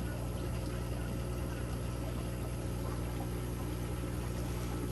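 Steady aquarium equipment noise: water from the tank's filter pouring and trickling over a low, even pump hum.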